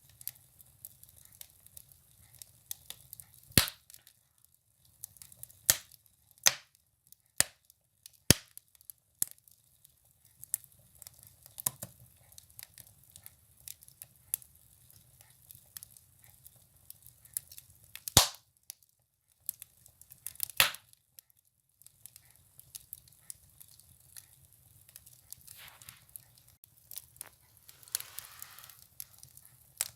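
Firewood burning in a wood stove, crackling with irregular sharp pops and snaps, a few much louder than the rest, over a faint hiss.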